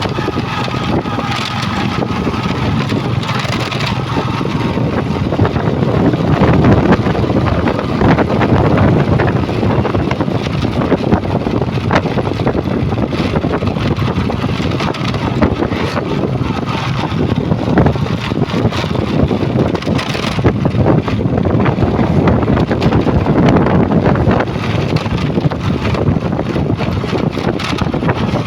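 Truck engines running steadily, mixed with wind noise on the microphone.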